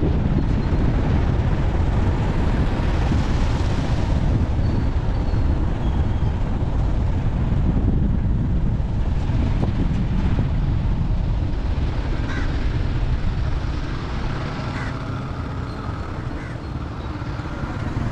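Steady rumble of a moving vehicle, road noise mixed with wind buffeting the microphone; it eases off a little in the last few seconds.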